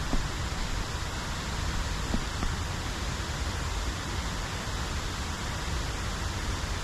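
Steady rushing of river water flowing over rocks, with a couple of faint knocks near the start and about two seconds in.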